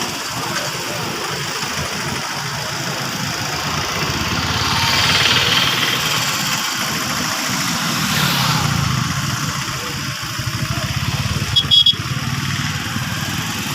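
An engine running steadily with a low pulsing rumble, swelling briefly in the middle, with a couple of short clicks near the end.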